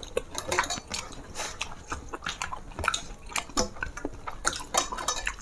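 Close-up eating sounds: a quick, irregular run of wet smacks and clicks from chewing and lip-smacking.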